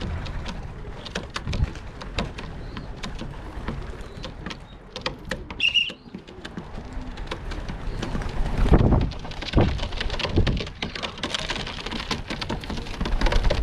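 Gusty rumbling wind noise on the microphone, with scattered crackling clicks and one short high chirp about six seconds in.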